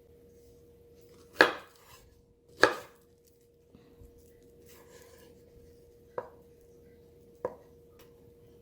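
Kitchen knife cutting through plantain: two loud chops about a second and a quarter apart, then two lighter ones near the end.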